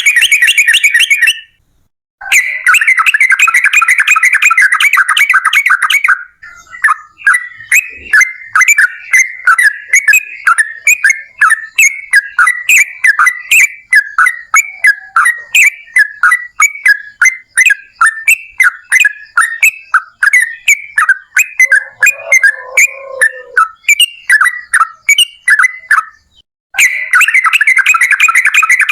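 Yellow-vented bulbul (trucukan) song: a long run of rapid, bubbly chattering notes, about three to four a second. Near the start and again near the end these merge into dense, unbroken chatter.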